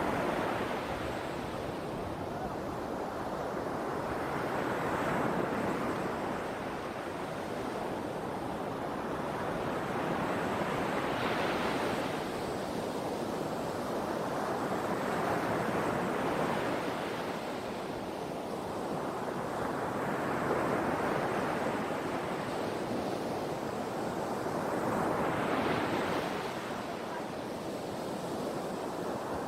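Ocean waves breaking and washing in, one swell of surf about every five seconds.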